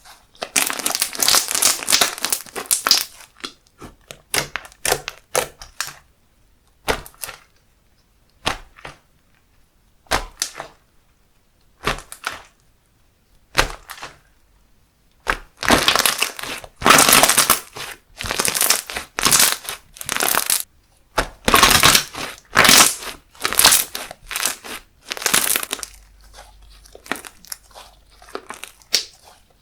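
Slime being squeezed, pressed and stretched by hand. It gives irregular bursts of crisp crackling and popping, densest near the start and again through the second half.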